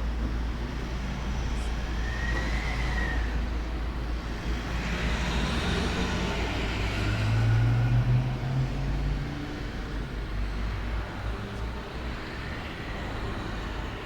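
A motor vehicle passing on a road, its engine and tyre noise swelling to a peak about eight seconds in and then fading, over a steady low rumble.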